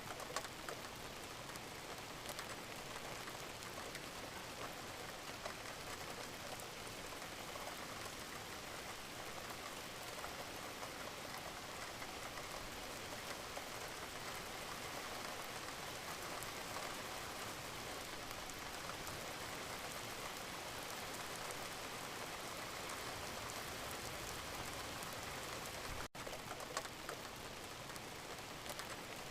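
Steady rain falling on a surface, with many individual drop hits heard in the even hiss. Near the end the whole sound drops out for an instant.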